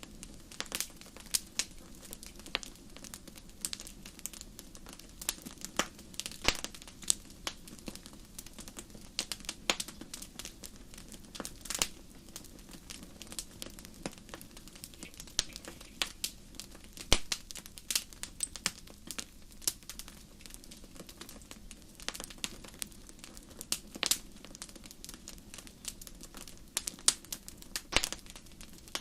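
Wood fire crackling in a fireplace: irregular sharp pops and snaps, a few much louder than the rest, over a low steady hiss.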